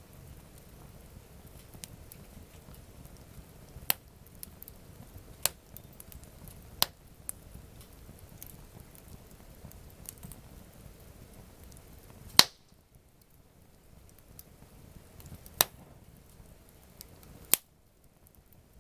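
Wood campfire crackling, with about six sharp, separate pops a few seconds apart, the loudest about two-thirds of the way through, over a faint low background noise.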